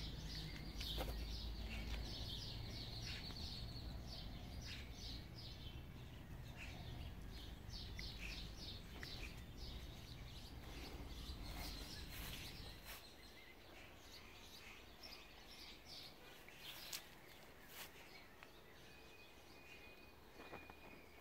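Birds chirping in quick runs of short high notes, over a low rumble that drops away about two-thirds of the way through. A few sharp clicks come near the end.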